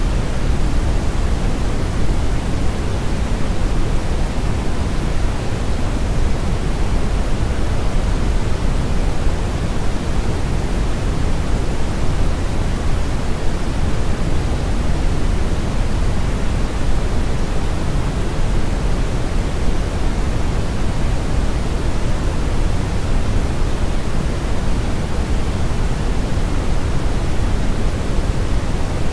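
Steady brown noise: an even, deep rushing hiss, strongest in the bass, that never changes.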